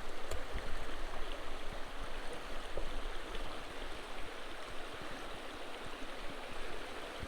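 Small creek running over rocks and a log jam, a steady rushing babble of water.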